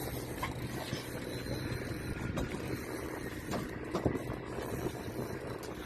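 A boat engine running steadily with a low, even hum over wind and water noise, with a few light knocks.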